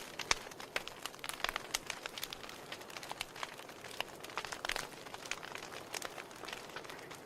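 Wood fire burning in a fireplace: many irregular sharp crackles and pops over a soft steady hiss of the flames.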